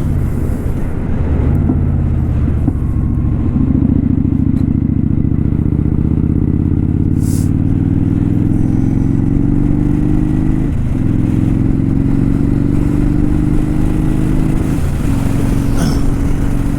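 Kawasaki Vulcan 900 Custom's V-twin engine pulling the bike along under acceleration, its pitch climbing steadily and dropping at an upshift about eleven seconds in and again about four seconds later before climbing once more.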